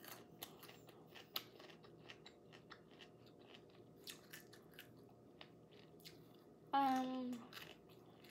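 Close-up chewing of crunchy pickled radish, with many small crisp crunches and wet mouth clicks. A brief hum of voice comes about seven seconds in.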